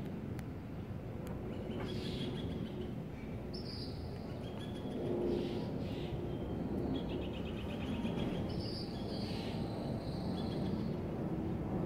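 Birds calling in a tropical garden: short high whistled calls, and a quick rattling trill past the middle, over a steady low outdoor rush.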